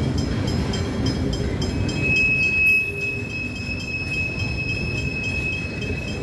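Freight wagons loaded with steel coils rolling past with a steady rumble of wheels on rail. From about two seconds in, a steady high squeal from the wagons holds on one note until near the end.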